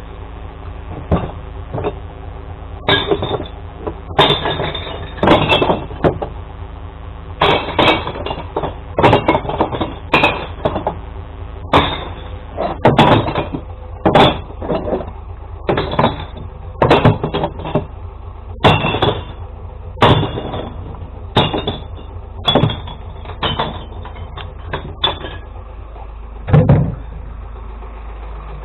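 Glass bottles being thrown one after another into a glass recycling truck's bin, clinking and smashing about once a second, some twenty times. Underneath runs the steady hum of the truck's idling engine.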